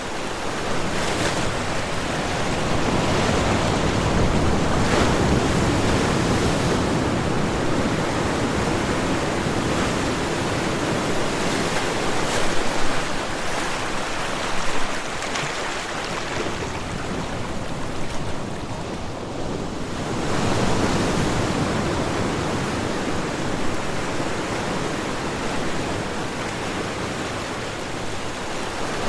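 Ocean surf: waves breaking and washing continuously, swelling and ebbing every few seconds.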